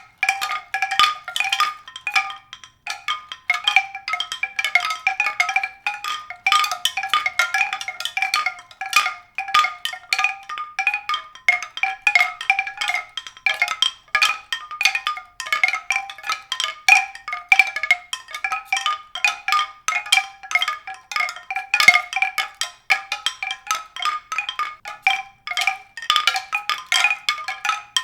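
Mallet percussion: rapid, irregular strikes, several a second, of a few bright pitched notes that keep repeating.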